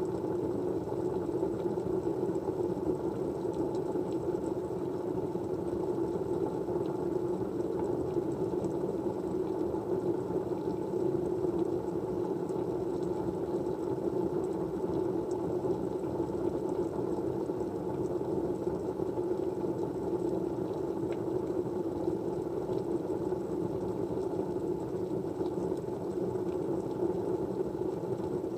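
Steady background white noise: an even, unbroken rushing that sits low to mid in pitch, with a few faint ticks.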